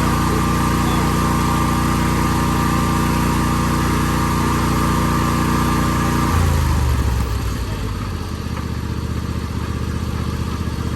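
Riding lawn mower engine running steady at high speed, then throttled down sharply about six seconds in to a low idle.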